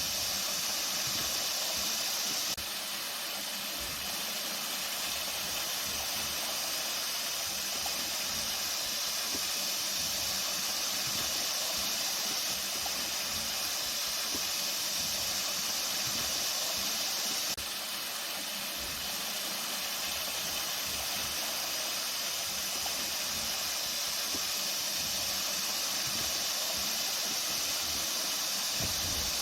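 Flowing water: a steady, bright rushing hiss with little low rumble, dipping slightly in level twice.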